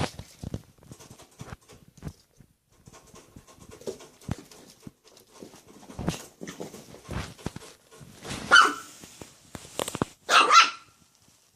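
Dog barking at play: light scuffling and clicks, then two short barks, one about two thirds of the way in and a louder one near the end.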